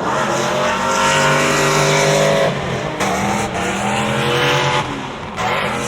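Drift car's engine held at high revs, pitch mostly steady with a couple of steps up and down partway through, over tyre noise from the slide.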